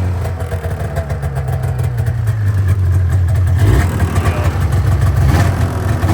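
1989 Polaris Indy 500 snowmobile's two-stroke twin engine running steadily soon after a cold start without choke. The engine note shifts briefly twice, about four and five and a half seconds in.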